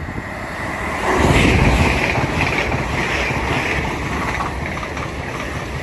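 Hull Trains Class 802 pair, 802302 and 802301, passing through the station at speed. A loud rush of air and wheel-on-rail noise swells about a second in and then carries on steadily.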